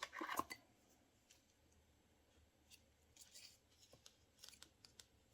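Scissors snipping paper: a quick cluster of cuts and paper handling at the start, then a few faint scattered snips and rustles.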